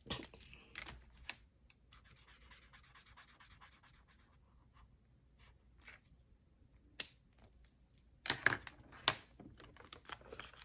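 Paper banknotes and envelopes being handled, faint rustling and scratching, with a sharp click about seven seconds in and a burst of louder rustles and clicks shortly after.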